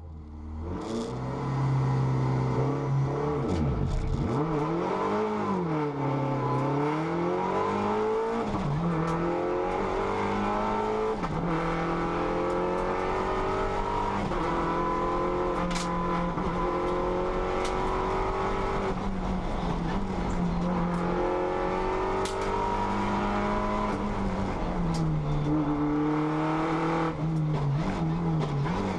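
Race car engine heard from inside the cabin, pulling hard up a hillclimb course: its pitch repeatedly climbs and drops back at gear changes. The sound fades in at the start, and the engine note wavers up and down for the first few seconds before settling into the climbs.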